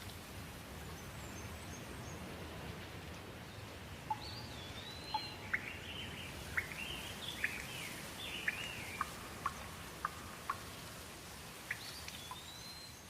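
Steady rain ambience with birds calling over it, their whistled, gliding calls starting about four seconds in, and sharp water drips landing now and then.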